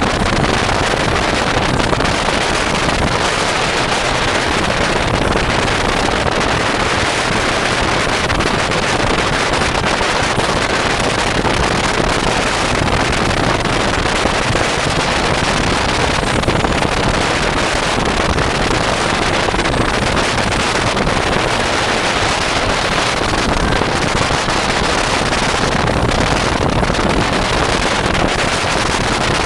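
Sea Ray 330 Sundancer cruiser with turbo-diesel conversion running under way: a loud, steady rush of engine and water noise with wind buffeting the microphone.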